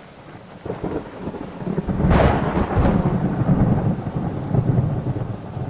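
Thunder over rain: a low rumble builds, breaks into a sharp crack about two seconds in, then rolls on steadily.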